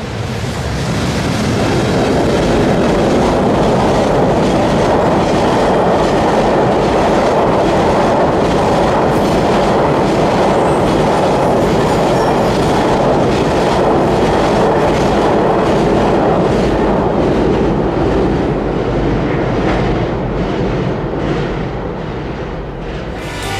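Freight train of tank wagons crossing a railway bridge: a steady rumble with wheels clacking over the rail joints. It swells in the first couple of seconds and eases off toward the end.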